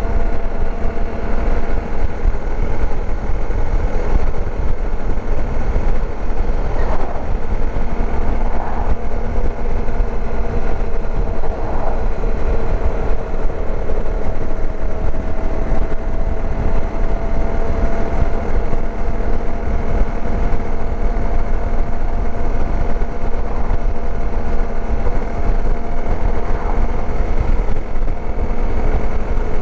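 Dirt bike engine running at a steady cruising speed, its note holding almost level with only a slight drift in pitch. Heavy wind rumble on the microphone underneath.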